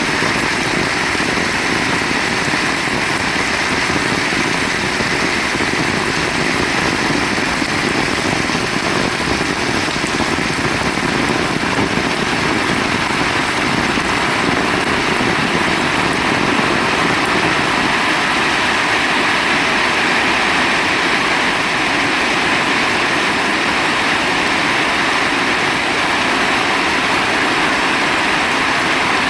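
Heavy rain falling in a loud, unbroken downpour.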